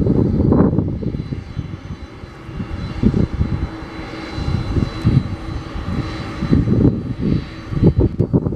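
Boeing 747-400F jet engines running with a deep, uneven rumble and a faint steady whine above it.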